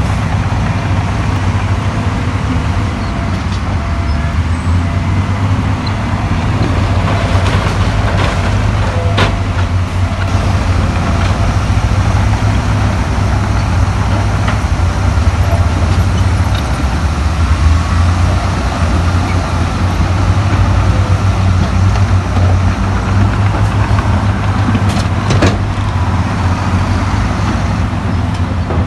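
Diesel engine of heavy earthmoving machinery running steadily with a deep rumble, with a couple of sharp metallic clanks.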